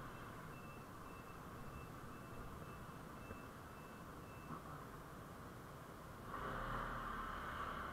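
A vehicle's electronic warning beeper sounding in short, even pulses, about two a second, over faint engine and road hum, stopping about halfway through. Near the end a louder steady rushing noise sets in.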